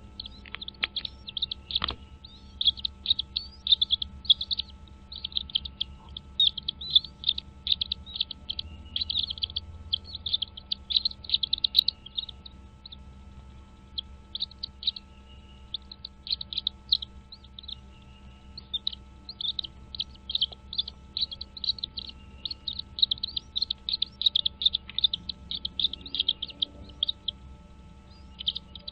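Birds chirping: rapid runs of short, high-pitched chirps, with brief lulls about thirteen and nineteen seconds in.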